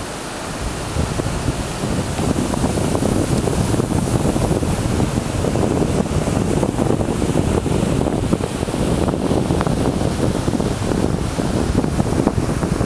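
Wind buffeting the microphone over the steady rush of sea waves on a shore.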